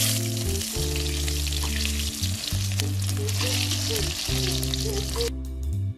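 Masala-topped whole onions and scored potatoes sizzling as they fry in hot oil in an iron kadhai, over background music. The sizzle cuts off about five seconds in, leaving only the music.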